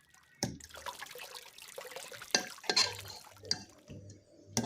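Water sloshing and dripping as a bowl of noodles in water is handled, with several knocks and clinks of the bowl along the way.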